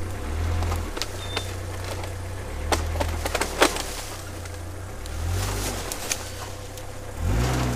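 A Suzuki Vitara's engine revving hard in reverse, several surges up and down, as the vehicle pulls on tow straps tied to a tree. A few sharp cracks come in a cluster about three seconds in.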